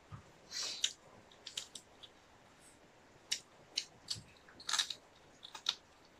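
Wet chewing and lip-smacking from people eating chicken and rice with their fingers: a dozen or so short, sharp, irregular smacks and clicks.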